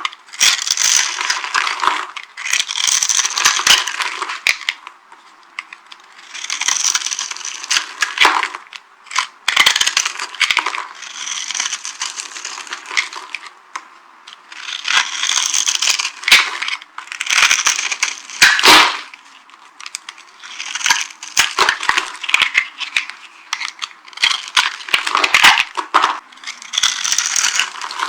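Dry soap crunching and crackling as it is crushed and crumbled, in repeated bursts of a second or two with short pauses between.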